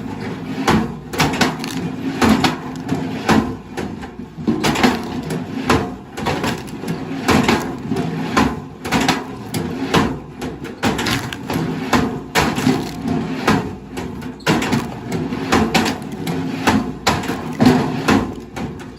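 Irregular wooden knocks and clatter, several a second, over a steady low engine hum.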